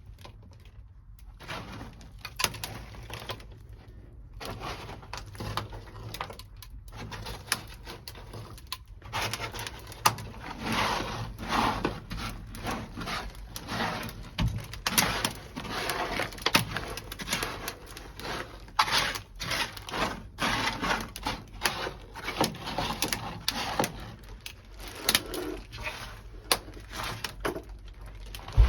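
Irregular sharp cracks, taps and knocks with bouts of scraping as frozen sound-deadening mat is broken and chipped loose from a car's metal floor after being chilled with dry ice. Sparse at first, then busier from about four seconds in.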